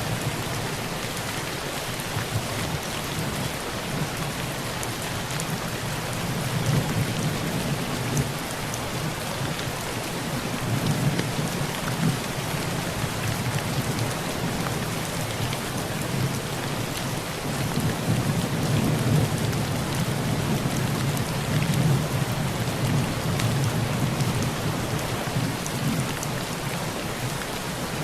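Heavy rain drumming on a tin roof: a steady hiss with scattered drop ticks. Low thunder rumbles under it, swelling about ten seconds in and again around two-thirds of the way through.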